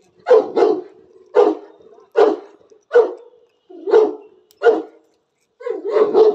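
An animal calling for food with a run of about ten short, sharp bark-like calls, roughly one every three-quarters of a second, with a faint steady hum between them.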